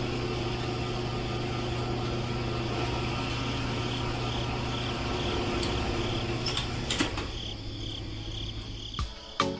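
A small motor humming steadily with a faint high pulsing whine, dying away about seven seconds in, followed by a few sharp clicks near the end.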